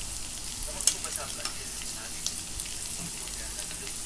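Paneer cubes sizzling steadily in hot ghee in a kadai, with a few light clicks of a steel spatula against the pan, the sharpest about a second in.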